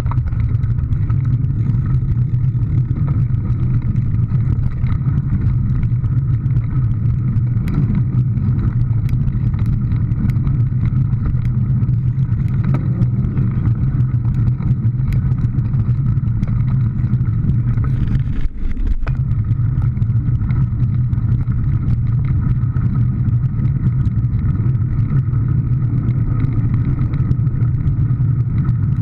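Steady vehicle engine and road noise, a constant low hum, with a brief dip about two-thirds of the way through.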